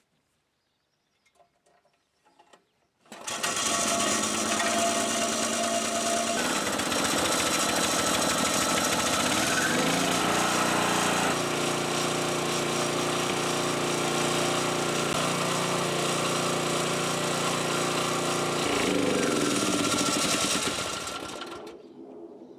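A Harbor Freight portable generator's small engine starts abruptly about three seconds in and runs with a steady drone. Its pitch shifts a few times as it settles. Near the end it winds down and stops.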